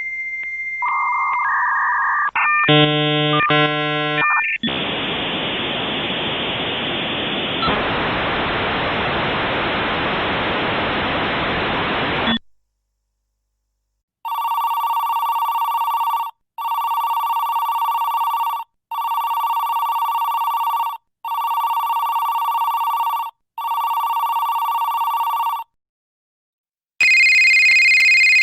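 A dial-up telephone line connection: a high steady answer tone, then a short burst of stacked tones, then about eight seconds of even hiss. After a short silence a telephone rings electronically five times, each ring about two seconds long, and a second, higher-pitched ring starts near the end.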